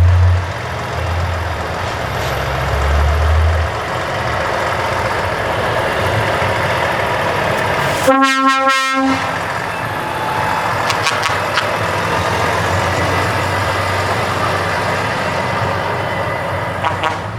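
Heavy truck engines running with a low rumble. About halfway through, one truck air horn blast lasts about a second.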